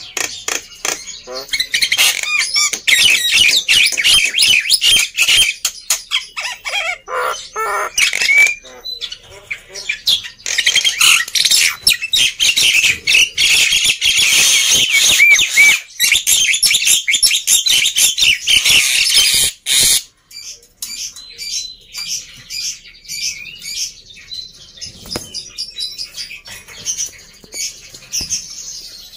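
Black-winged myna (jalak putih) singing noisily: a dense, rapid chatter of harsh squawks and whistles, loud for about the first twenty seconds, then thinner and quieter.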